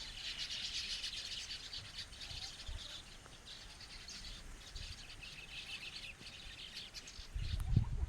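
A flock of small birds chirping together, a dense high twittering chatter of many short calls overlapping. A low rumble comes in near the end.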